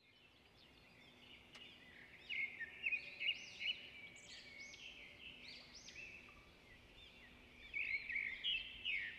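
Birds chirping: many short, arched chirps over faint background noise, with louder runs of calls about two to four seconds in and again near the end.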